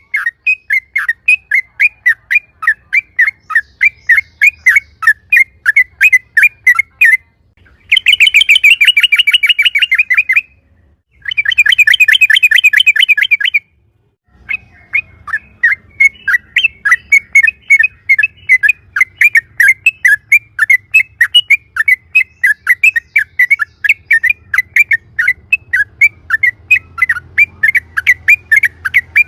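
Yellow-vented bulbul (trucukan) calling loudly: a fast run of short, sharp chirps, about three or four a second, broken near the middle by two bursts of rapid rolling trill.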